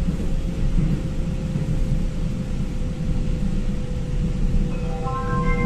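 Steady low rumble of a vehicle in motion, with a faint steady hum over it. About five seconds in, a melody of separate ringing notes begins.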